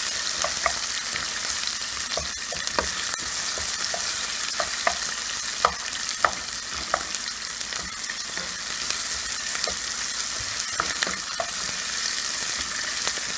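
Chopped onion frying in hot oil with whole spices in a pan: a steady sizzle, with irregular clicks and scrapes of a spatula as it is stirred. The onions are being sautéed until slightly transparent.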